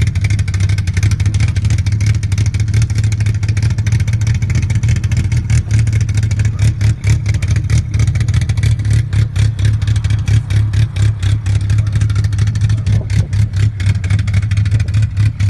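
Tofaş Doğan car engine running with a deep, steady exhaust note; from about six seconds in the sound turns choppier, with rapid uneven pulses.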